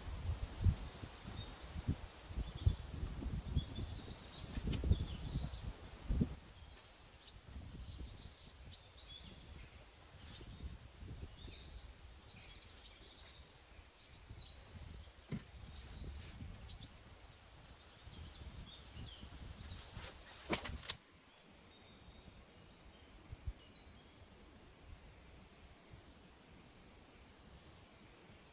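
Small birds chirping on and off, over low thuds and rustling in the first six seconds and a couple of sharp clicks about twenty seconds in.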